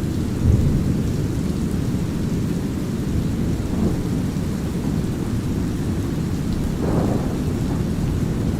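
Thunderstorm soundscape mixed with deep brown noise: a steady low rumble with light rain over it, thunder swelling briefly about half a second in and rolling again more brightly near the end.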